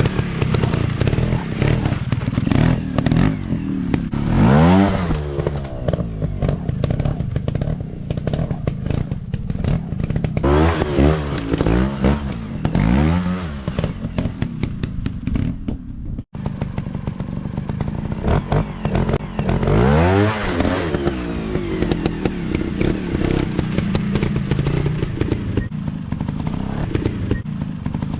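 Single-cylinder four-stroke trail-bike engines revving up and falling back again and again, with clattering and knocks from riding over rough ground. The sound cuts out for an instant about halfway through.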